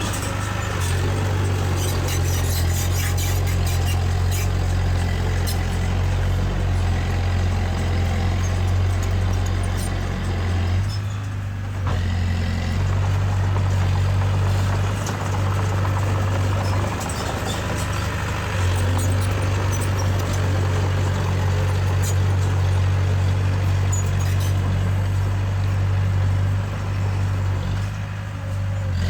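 Heavy-machinery diesel engine running steadily with a deep hum, over scattered metallic clanks and rattles. The engine note dips briefly about eleven seconds in and again near the end.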